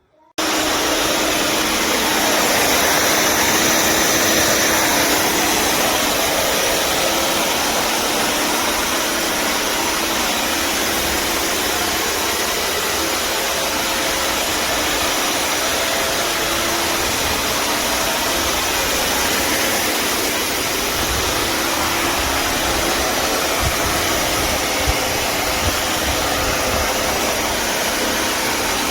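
Bissell CrossWave HydroSteam Pet wet-dry vacuum running, a loud, even rush of motor and airflow noise that starts abruptly about half a second in.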